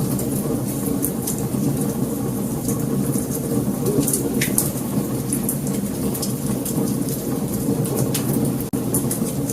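Wood fire crackling: many sharp pops and snaps scattered over a steady low rush of burning.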